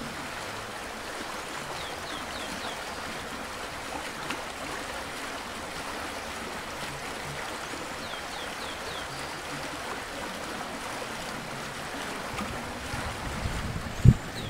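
Stream flowing steadily, with a small bird twice singing a short phrase of four quick descending high notes. Near the end come low rumbles and one loud thump.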